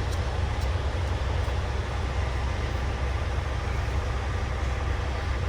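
Steady low rumble of an idling engine, with a couple of faint clicks in the first second.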